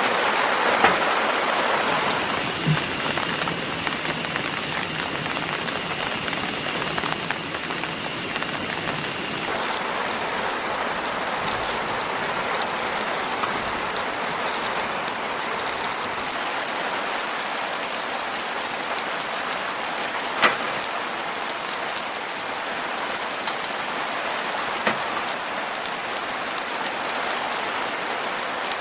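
Steady rain falling, with a few sharp pops, the loudest about two-thirds of the way through.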